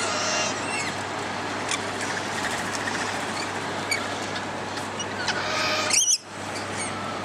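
A flock of lorikeets chattering and screeching while feeding, with one loud, harsh screech about six seconds in, over a steady background noise.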